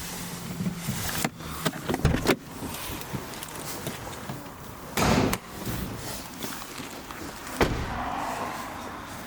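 Clicks and knocks of a car being handled, with a louder half-second rush about five seconds in and one sharp click near the end.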